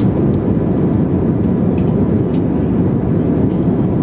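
Cabin noise of an airliner in flight: a steady, low drone of jet engines and rushing air.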